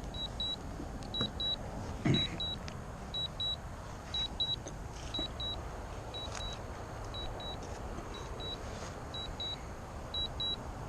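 Drone remote controller beeping in short high double beeps, a pair about every 0.7 seconds: the alert it sounds while the drone flies its automatic return home. Wind rumbles on the microphone underneath.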